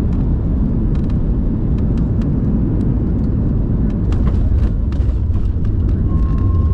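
Airliner cabin noise during the landing: a heavy, steady low rumble with many light rattles and clicks, and a short steady tone near the end.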